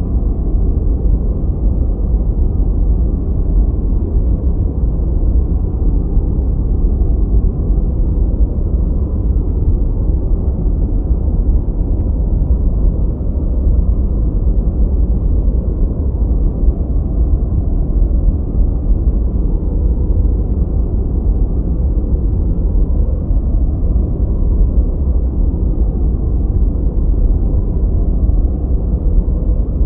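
Steady, unchanging deep noise with almost nothing in the high range: a muffled, low-pitched white-noise-style track for study or sleep.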